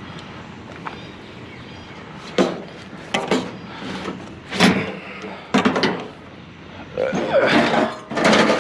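Pieces of scrap metal knocking and clattering as they are handled and dropped: a handful of separate knocks from about two seconds in, then a longer, denser clatter near the end.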